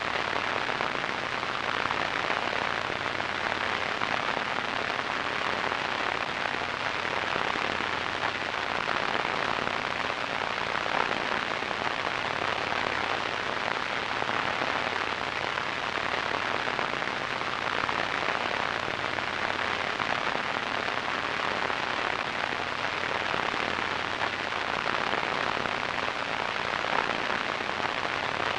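Radio static: a steady, even hiss, strongest in the middle range, with no change in level.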